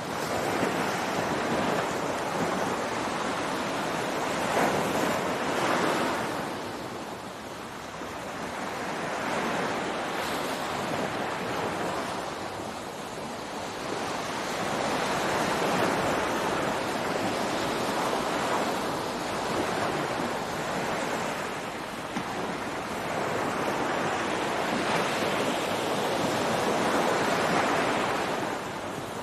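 Ocean waves breaking on a beach, a steady wash of surf that swells and fades every few seconds as each wave comes in and draws back.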